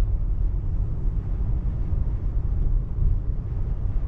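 Steady low rumble of tyre and road noise inside a Tesla Model 3's cabin while driving on wet roads, with no engine sound.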